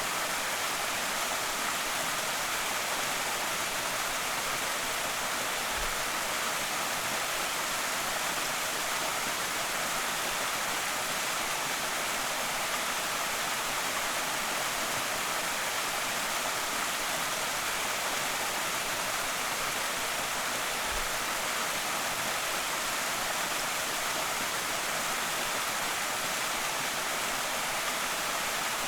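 Creek waterfall splashing and rushing, a steady, even hiss of falling water with no change in level.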